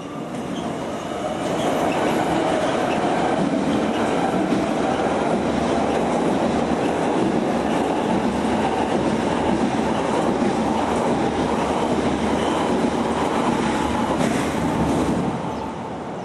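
Electric passenger train passing close by, its wheels rumbling and clattering on the rails. The sound swells about a second and a half in, stays loud, and drops away near the end as the train clears.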